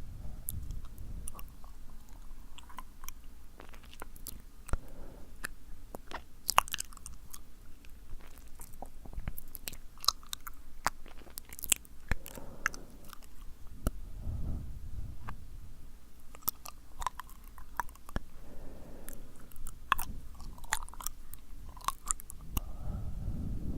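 Wet, sticky mouth sounds close to the microphone: irregular tongue and lip clicks and smacks, with a few soft breaths.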